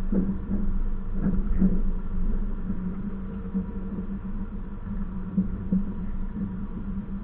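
Passenger train running along the track: a steady low rumble and hum, with a few short knocks, loudest in the first couple of seconds.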